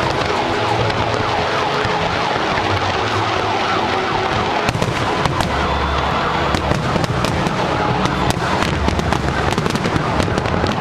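Fireworks display: a continuous din with bangs and crackling that come thick and fast from about halfway through.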